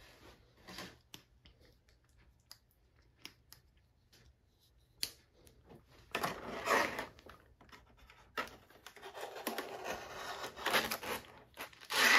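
Cardboard and plastic packaging of model train cars being handled and opened: scattered light clicks and taps at first, then two longer stretches of scratchy rustling and tearing in the second half.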